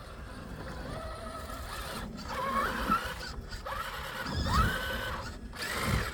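Electric motor and drivetrain of an Axial SCX6 Honcho 1/6-scale RC rock crawler whining in short throttle bursts as it climbs over rocks, the pitch rising and then holding with each burst. There are three bursts, the loudest about halfway through, with low rumbling knocks from the tyres and chassis on the rock.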